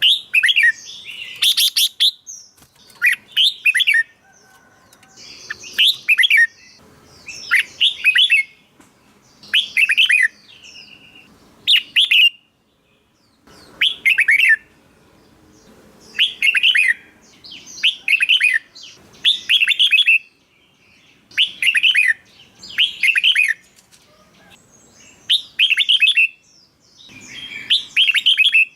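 Red-whiskered bulbul singing short, loud, warbling phrases, one after another about every one to two seconds with brief pauses between.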